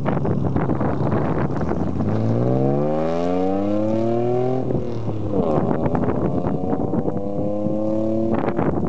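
1985 Nissan 300ZX's non-turbo 3.0 V6 through a race cat and glasspack exhaust, pulling up under throttle. A rough low note rises steadily in pitch for about three seconds, drops suddenly about halfway through, then climbs slowly again.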